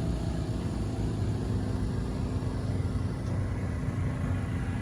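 Twin-turbo 350 small-block Chevrolet V8 idling with a steady low rumble.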